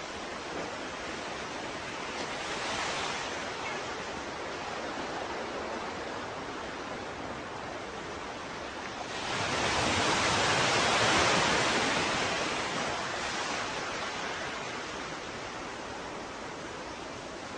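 Ocean waves: a steady hiss of surf, with a small wave breaking about three seconds in and a larger one building about nine seconds in, breaking, then washing away over a few seconds.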